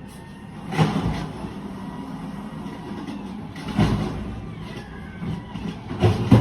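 Garbage truck engine running steadily, with three short loud surges: about a second in, near four seconds, and near the end.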